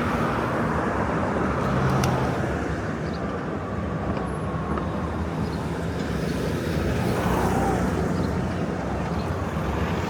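City street traffic noise: a steady wash of passing cars and other road vehicles, with a few faint ticks and brief tones over it.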